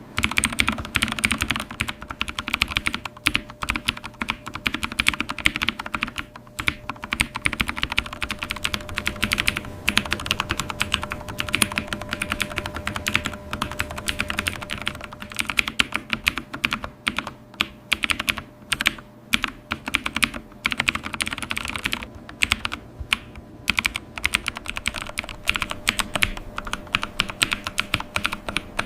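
Computer keyboard being typed on quickly and continuously, a rapid run of key clicks with a few brief pauses.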